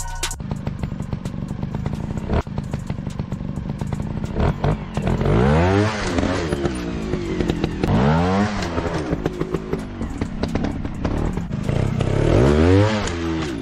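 Motorcycle engine running, its revs rising and falling three times: about six seconds in, about eight seconds in and near the end, over a clatter of small clicks.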